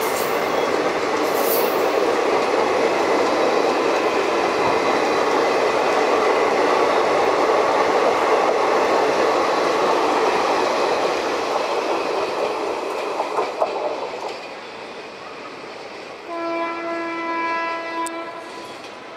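Passenger train running past on the rails, a loud, steady clattering rush that fades away about fourteen seconds in. Then a train horn sounds one steady blast of about two seconds.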